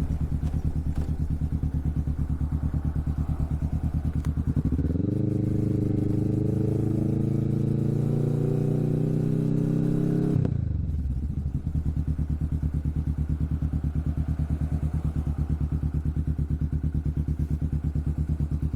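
Kawasaki Vulcan S parallel-twin engine running through a Hoonk twin aftermarket exhaust. About five seconds in, the engine note rises steadily under acceleration for several seconds, then drops sharply about ten seconds in and settles back to a steady, lower note.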